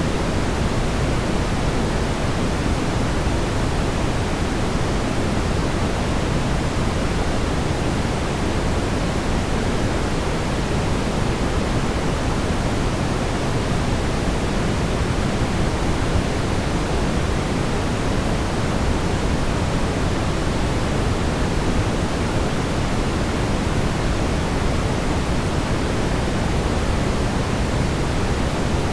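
Steady brown noise: a constant, even rumbling hiss, heaviest in the low end, with no changes or events.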